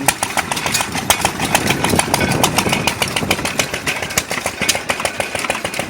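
Antique hit-and-miss gas engines running, making a rapid, uneven clatter of clicks and knocks.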